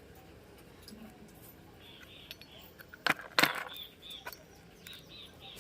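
Metal tools or engine parts clinking against each other during scooter engine work, with two sharp clinks close together about three seconds in.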